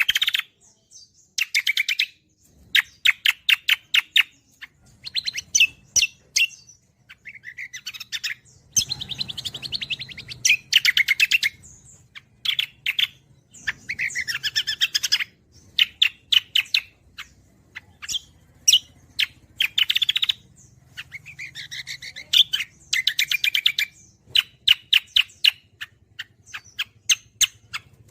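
Cucak kombo songbird singing in full, continuous song: phrases of rapid, loud chattering and twittering notes, repeated one after another with short pauses, over a faint low hum.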